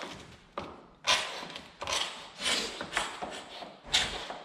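Hand scraper scraping old finish and wood out of a hardwood floor corner, a series of short rasping strokes about one every half to one second.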